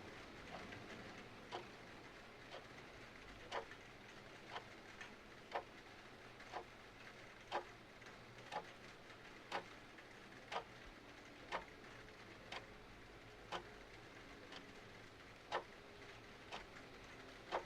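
Clock ticking about once a second over a faint, steady hiss of rain.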